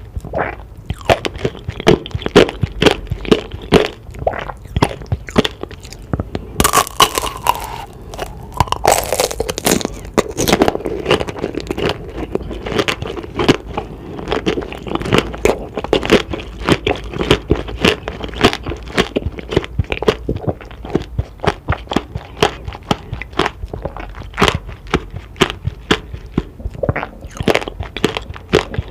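Close-up crunching and chewing of tanghulu, candied fruit on skewers coated in hard, glassy sugar. The sugar shell cracks in rapid, sharp crunches, one after another, with a brief, louder patch of a different noise about seven seconds in.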